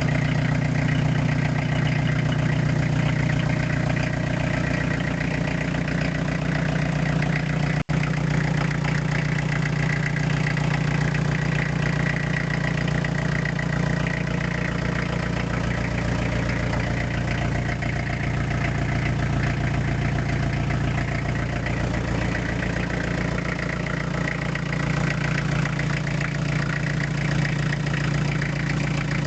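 Renault 2.5-litre diesel engine idling steadily, a used engine in good running order. The sound drops out for an instant about eight seconds in.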